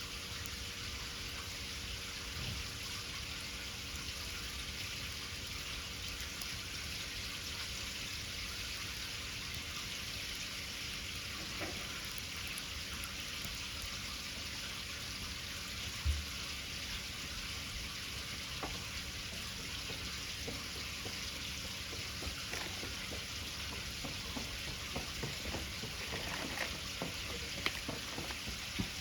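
Wood bonfire burning with a steady hiss and scattered sharp crackles, the crackles coming more often near the end.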